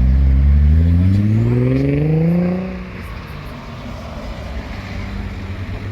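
A car engine accelerating, its pitch climbing steadily for about two seconds and then cutting off sharply about three seconds in, leaving outdoor background noise.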